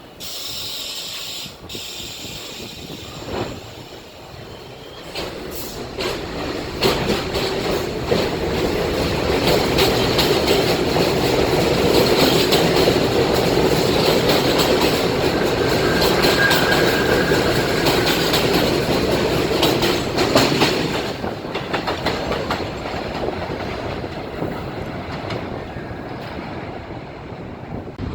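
A New York City subway train on the elevated Jamaica Line running through the station, growing louder, then fading. The wheels clatter over the rail joints, with a brief high wheel squeal in the middle.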